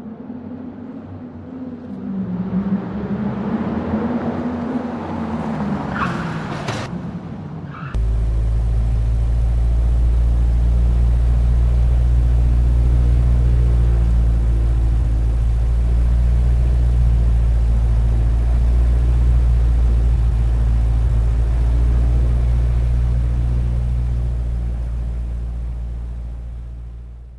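Vehicle engine sound: for the first eight seconds an engine revs, its pitch rising and falling, then it cuts suddenly to a loud, steady low engine rumble that fades out near the end.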